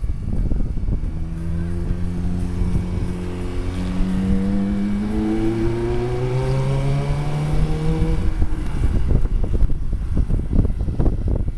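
Ferrari F430's V8 engine pulling hard under acceleration: its note climbs, drops about halfway at a gearshift, then climbs again before fading about eight seconds in. Wind buffets the microphone.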